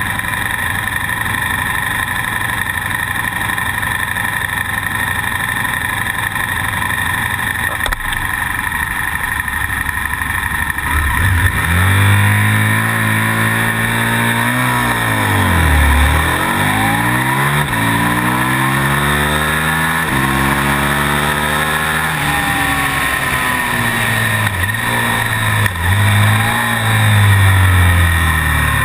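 KTM Super Duke motorcycle's V-twin engine heard onboard, with a steady hiss for the first ten seconds or so. About twelve seconds in it is revved hard and pulls away, its pitch climbing and dropping again and again as it accelerates through the gears.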